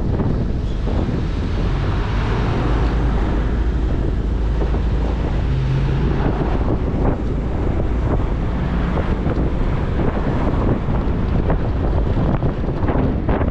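Heavy wind rush buffeting the microphone on a moving motorcycle, with the bike's engine and road noise running underneath.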